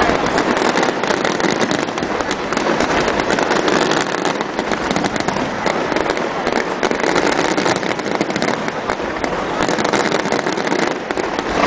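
Fireworks display: a dense, continuous crackling of many shells and crackle stars bursting at once, with no break.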